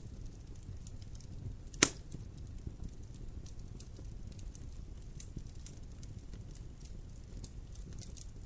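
Wood fire crackling in a fireplace: a steady low rumble with scattered small crackles and one loud sharp pop about two seconds in.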